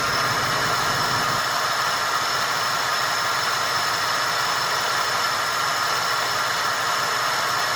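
Buick Roadmaster's LT1 5.7-litre V8 idling, heard at the passenger-side exhaust, with the idle going in and out a little. This surge is the sign of a random misfire, which the owner suspects comes from exposed wires at the ignition control module connector.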